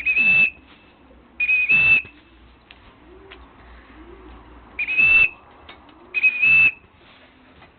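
A whistle blown in four short blasts, in two pairs, to call returning racing pigeons down into the loft.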